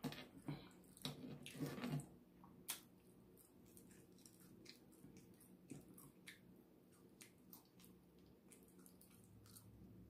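Faint, close-up wet chewing and squishing of rotisserie chicken meat, busiest in the first two seconds, then a few scattered soft clicks.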